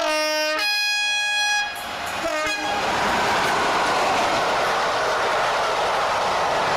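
Train horn sounding: a short low note, then a longer higher note, then a brief low blast about two seconds in. It is followed by the steady rushing noise of the train running along the track.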